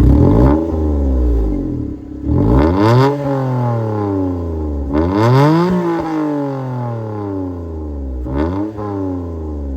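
Suzuki Alto HA24's K6A three-cylinder engine, breathing through a homemade one-off exhaust, revved in four throttle blips. Each one rises quickly and falls back more slowly towards idle, and the last is the shortest.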